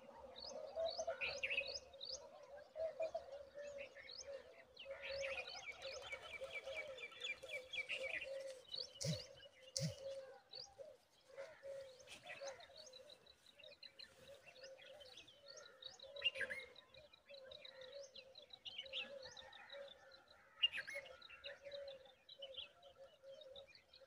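Small songbirds chirping and trilling in short repeated phrases, in clusters with pauses, over a low wavering hum; two sharp knocks about nine and ten seconds in.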